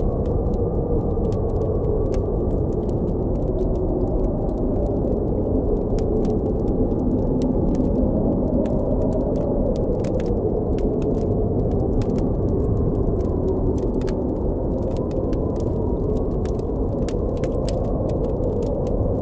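Blizzard wind blowing steadily with a slowly wavering howl, under the frequent small sharp pops and crackles of a campfire.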